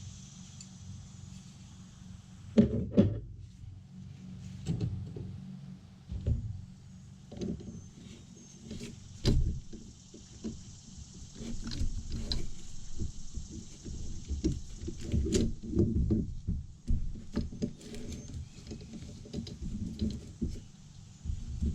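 Metal parts of a Ford 5.0 starter motor clinking, knocking and scraping as it is taken apart by hand, over a steady low hum.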